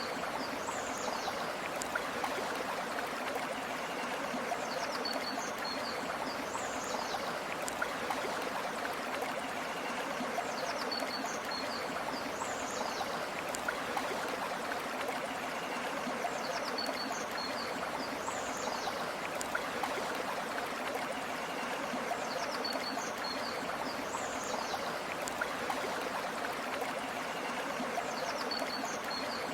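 Steady flowing river water, an even rushing and babbling. A brief high chirp recurs about every six seconds above the water.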